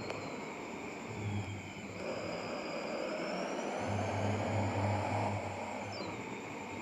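Truck running on the road, a steady engine and road noise with a low hum that grows louder twice.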